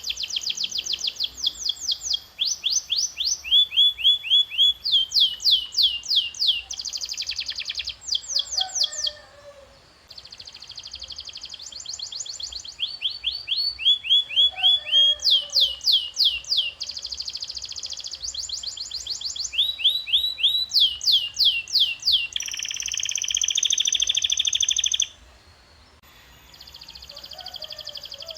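Domestic canary singing a long rolling song: phrases of rapid, evenly repeated notes and fast trills, each phrase switching to a new note type every second or two, with two short pauses, one about a third of the way in and one near the end.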